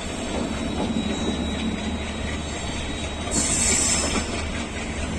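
Passenger coaches of the Jaipur–Udaipur Intercity Express rolling slowly out of the station: a steady running rumble with wheel clatter over the trackwork. A brief high-pitched noise rises about three and a half seconds in and is the loudest moment.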